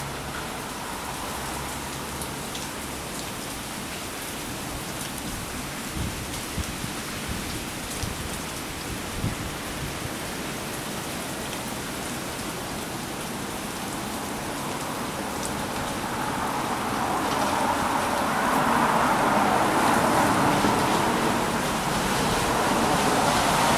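Steady rain falling, with a few drops ticking close by, growing heavier and louder about two-thirds of the way through.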